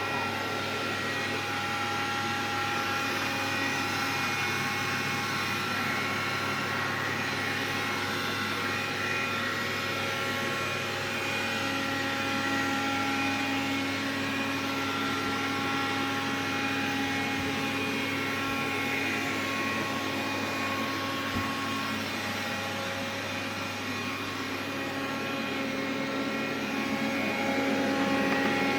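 Xiaomi vacuum cleaner running steadily: a continuous whir with several steady whining tones that shift slightly in pitch and strength, growing a little louder near the end.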